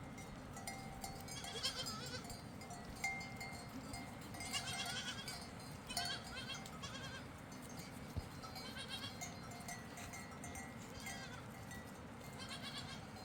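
A flock of goats and sheep bleating, one wavering call after another every second or two, over a steady hiss.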